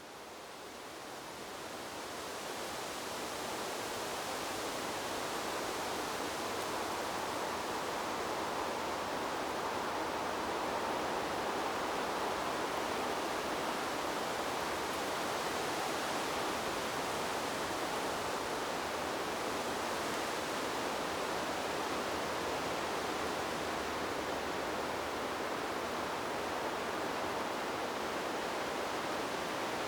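Steady rushing noise of wind in trees, used as sleep-aid white noise: an even hiss with no gusts or breaks. It fades in over the first few seconds, then holds level.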